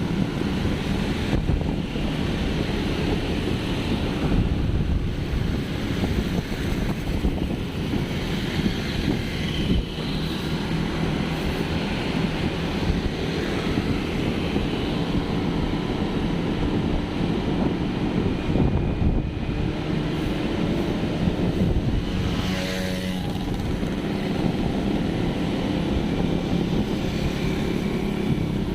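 Steady wind rumble on the microphone over the engine and road noise of a moving vehicle.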